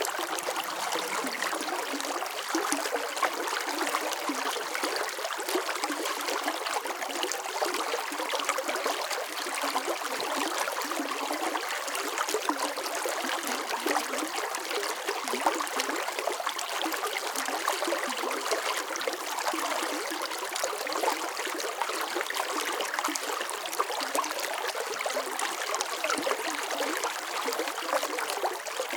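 Water running steadily over stones in a shallow stream, a continuous splashing, trickling rush with no deep rumble.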